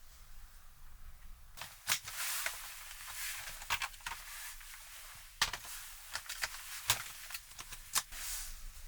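Irregular clicks and light knocks mixed with short bursts of rustling, beginning about a second and a half in, like small objects being handled.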